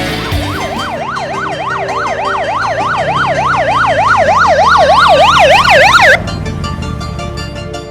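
Electronic emergency-vehicle siren in a fast yelp, its pitch sweeping up and down about four times a second and growing louder before cutting off suddenly about six seconds in, over background music.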